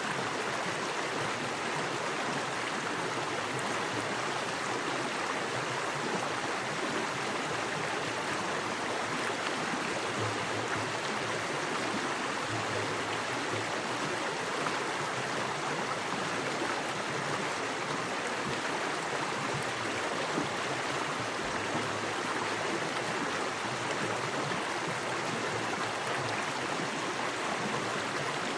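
Small forest creek running fast over rocks: a steady, even rush of water.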